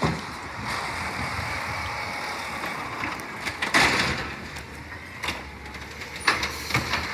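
Garbage truck working: a steady hiss for the first few seconds, a loud clatter about four seconds in, then a few sharp knocks.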